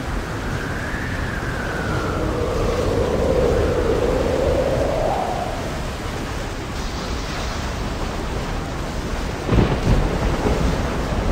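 Thunderstorm ambience: steady rain and wind, with a tone that glides down and then rises over the first few seconds. A heavy thunder crash comes about nine and a half seconds in.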